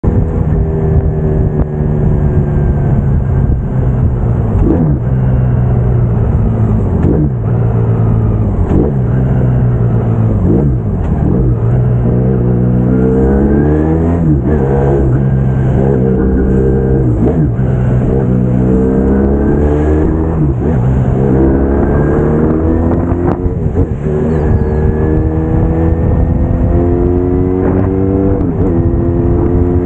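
Braaap Moto4 sportsbike engine heard from the bike as it is ridden: steady at first, then accelerating up through the gears from about twelve seconds in, its pitch climbing and dropping back at each gear change, several times over.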